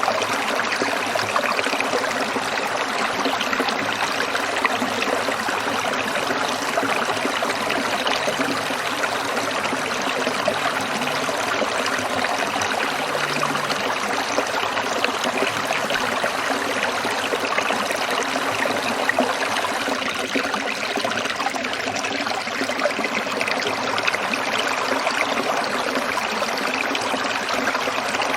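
Small stream trickling and splashing over stones in a steady, even flow.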